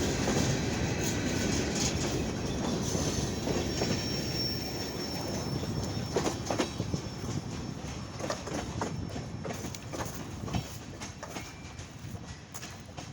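Freight train rolling past, its wheels clicking over the rail joints, with a brief thin wheel squeal about four seconds in. The train fades as it moves away toward the end.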